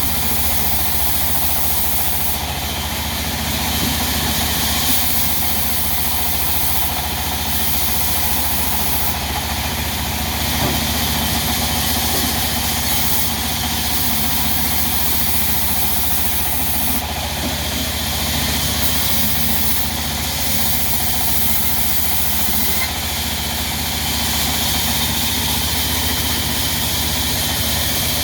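Diesel engine driving a sawmill, running steadily at a constant speed with a low, even hum and a high hiss over it.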